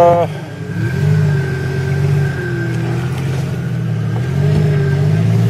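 Jeep Cherokee XJ engine under load while crawling off-road, revving up and settling back twice as it works at an obstacle it is hanging up on. A steady high thin whine runs alongside.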